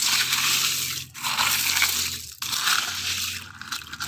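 Sand being dug and scraped by hand, a grainy crunching in three stretches with short pauses between them.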